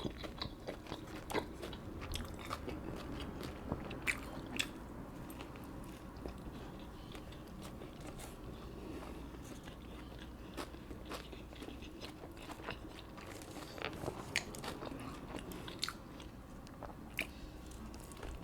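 Close-miked mouth sounds of a person biting and chewing food, with scattered short sharp clicks.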